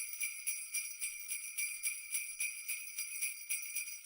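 Sleigh bells shaken in a steady rhythm, about four shakes a second.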